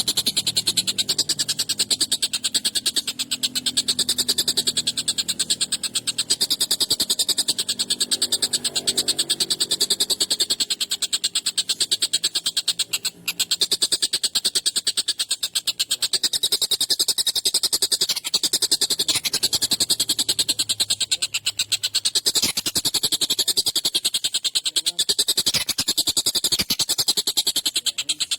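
Tengkek buto kingfisher calling continuously: a harsh, high, rapid rattle of closely packed notes. There is a brief break about 13 seconds in.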